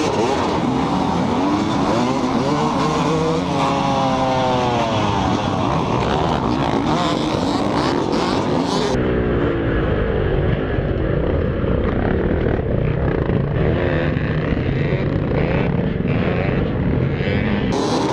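Motorcycle engines revving, their pitch rising and falling as the bikes accelerate and pass, across a few short clips with abrupt changes in sound about halfway through and near the end.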